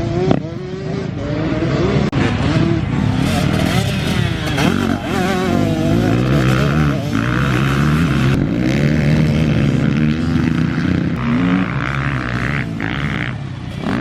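Husqvarna 125 TC two-stroke motocross engine being ridden hard, its revs rising and falling over and over through the gears and corners, heard onboard from the rider's helmet.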